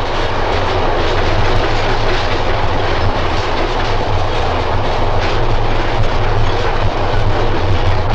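Single South Shore electric interurban car running past: a loud, steady rumble of motors and wheels that swells over the first second and then holds.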